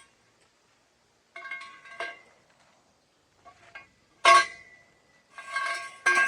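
Several metal-on-metal clanks and scrapes, each leaving a short ringing tone. The loudest is a sharp strike a little past the middle; a longer scraping clank follows near the end.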